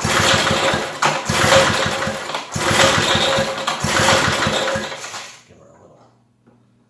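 Old Briggs & Stratton riding-mower engine being cranked by its starter in four bursts of about a second each, turning over fast without catching. It is a hard-starting engine.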